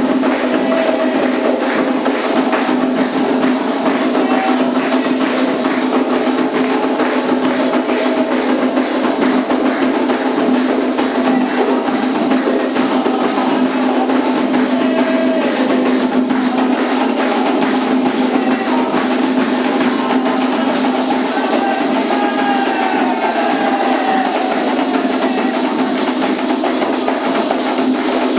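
Candomblé ritual music: atabaque hand drums and other percussion played in a dense, unbroken rhythm while voices sing over them, with a steady low hum underneath.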